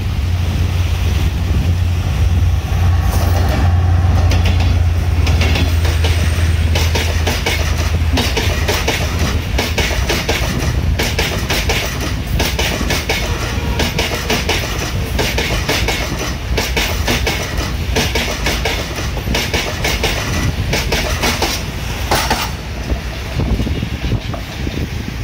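Diesel-hauled passenger train passing close by. The locomotive's engine drones low for the first several seconds, then the coaches roll past with the wheels clacking over the rail joints, and the clacking thins out near the end as the train moves away.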